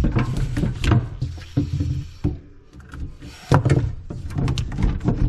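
Irregular knocks, clicks and scraping from hands-on plumbing work on a drain line: pipe, fittings and tools being handled.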